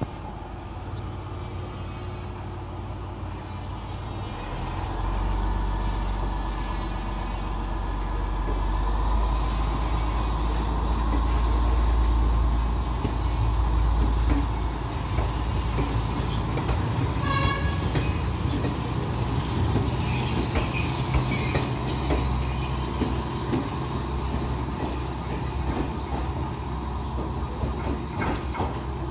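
Class S8 diesel multiple unit pulling away: its diesel engine throbs louder for the first half, then the carriages roll past with wheels clicking over rail joints and a brief high squeal.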